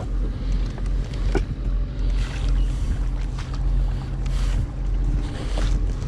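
Wind buffeting the microphone in a steady low rumble, with a few light knocks around the kayak.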